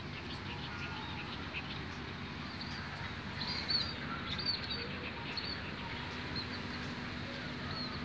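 Small birds chirping: a series of short, high calls, most of them in the second half, over a steady background hiss of open air.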